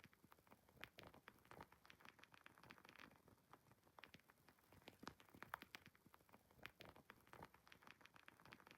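Wood fire crackling quietly in a fireplace: a faint, irregular stream of small pops and snaps.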